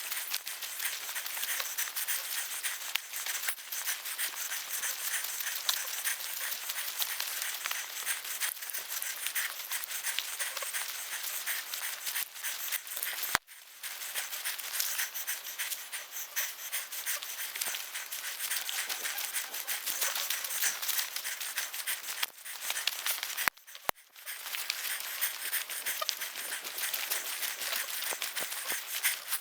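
Steady rustling and crunching of footsteps pushing through brush and leaf litter on a forest portage trail. It breaks off briefly twice, about halfway through and again near the end.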